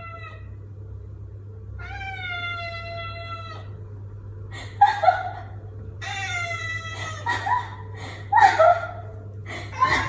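A cat yowling: one long drawn-out meow, then a run of shorter, louder meows.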